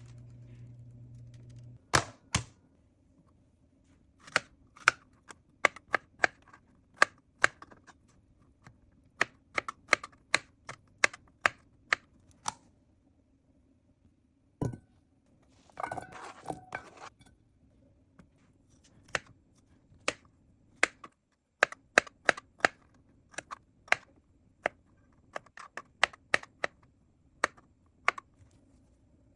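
Kitchen utensils and containers tapping and clicking during food preparation: irregular sharp taps, a heavier knock about halfway through, then a brief rattling scrape just after.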